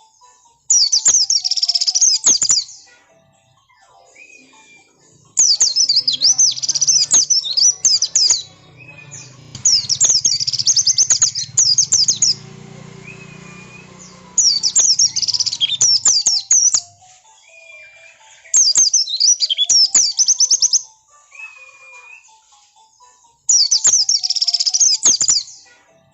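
Pleci (white-eye) song in insistent, aggressive 'ngotot' style, used as a lure to make other white-eyes answer: six bursts of fast, high twittering, each about two seconds long, repeating every four to five seconds, with fainter short whistled notes in the gaps.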